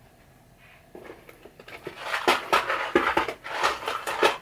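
Small loose hardware, screws and washers, being rummaged through by hand in search of a longer screw. Faint clicks about a second in turn into a busy run of irregular rattling and clinking from about two seconds in.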